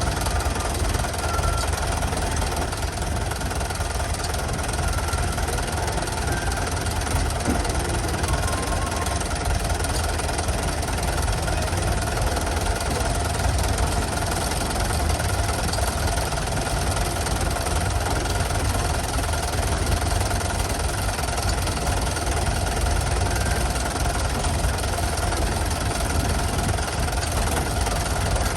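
An engine running steadily at idle with a fast, even knocking beat and a heavy low rumble.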